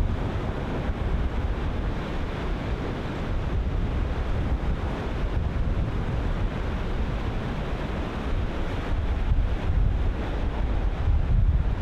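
Ocean surf breaking in a steady rolling wash, with wind buffeting the microphone in low gusting rumbles that grow louder near the end.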